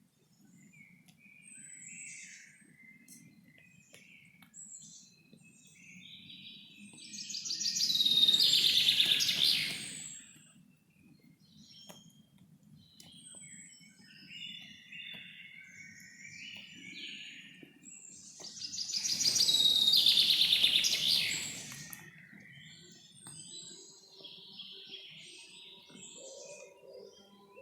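Forest birds chirping and singing, with two louder bouts of song a little under a third of the way in and again about two-thirds of the way through, each lasting about three seconds, over a faint steady background.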